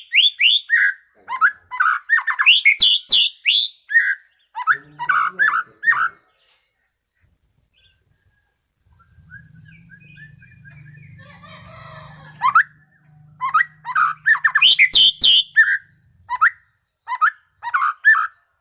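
White-rumped shama (murai batu, Medan strain) singing loud, rapid phrases of sweeping whistles and chattering notes. The song comes in two bouts with a pause of a few seconds in the middle, where a faint low hum is heard.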